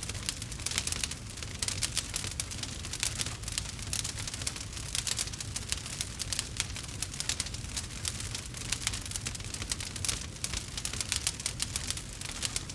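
Wood fire crackling: dense, irregular pops and snaps from burning logs over a low steady rumble.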